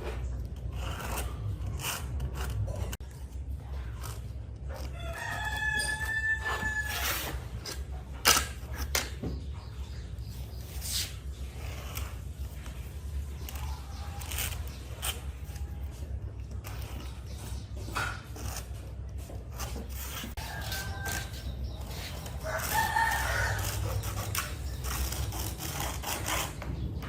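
A rooster crowing, once about five seconds in and again near the end, over a steady low hum with scattered knocks, one sharp knock just after the first crow.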